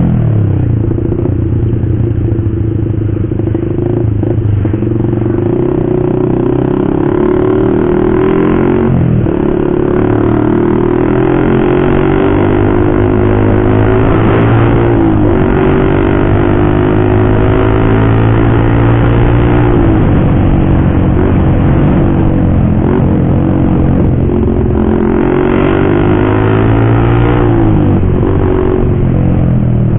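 Motorcycle with a loud aftermarket racing exhaust being ridden, its engine note climbing and dropping back several times as it accelerates through the gears.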